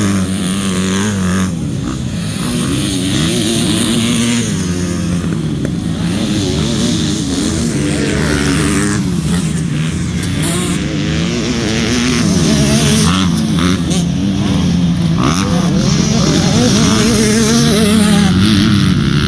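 Motocross motorcycle engines revving and easing off again and again as the bikes race, the pitch climbing and dropping with throttle and gear changes.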